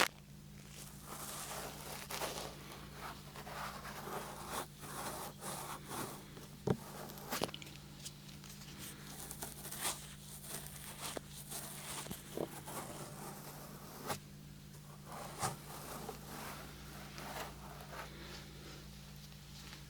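Close-up rubbing and scratching with irregular light clicks and taps, from fingers working right at a 3Dio binaural microphone. A steady low hum runs underneath.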